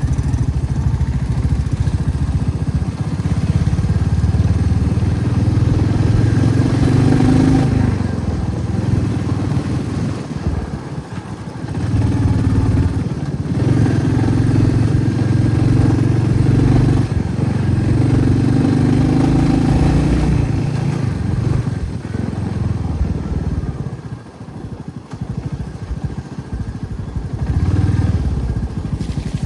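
Motorcycle engine running while riding. The note eases off twice as the throttle is closed and then picks up again.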